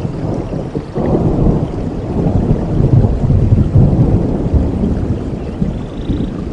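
Thunder rumbling in a rainstorm: a low, loud roll that swells about a second in and eases off near the end, over the steady hiss of rain.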